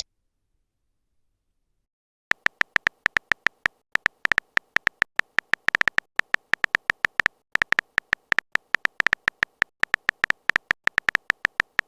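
Phone keyboard typing sound effect: a quick, uneven run of short tapping clicks, starting about two seconds in, as a chat message is typed out.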